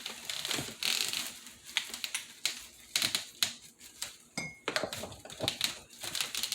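Irregular light clicks and taps of metal window-blind bracket hardware being handled and positioned against the window frame, with one brief high squeak about four and a half seconds in.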